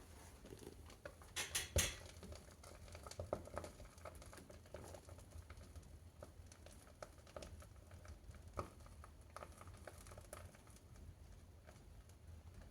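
Fire crackling in a wood-burning stove as leather riding boots burn: irregular small pops and snaps, with a louder cluster of pops near the start.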